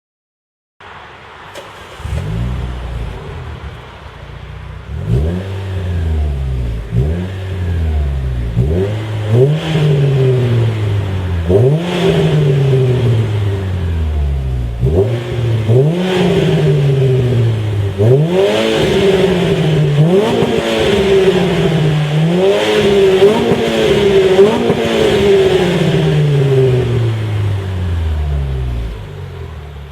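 Renault Clio III RS's 2.0-litre four-cylinder engine, breathing through a Supersprint aftermarket exhaust. It idles, then is revved again and again in sharp blips that rise quickly and fall back to idle. Later come longer revs, held and then let down.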